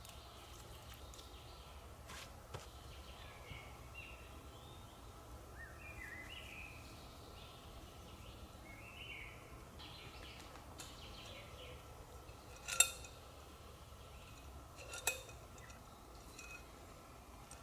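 Faint bird calls chirping over quiet forest background, with two sharp ringing clinks a couple of seconds apart, the first the louder, in the later part.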